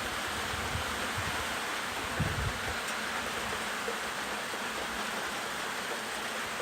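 Steady rain falling, an even hiss, with a brief low thump a little over two seconds in.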